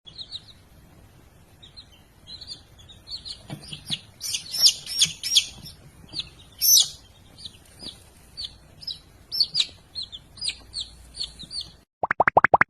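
A small bird chirping over and over: short, high chirps a few per second, loudest in the middle stretch. Near the end the chirping stops and a quick run of rising plopping sound effects begins.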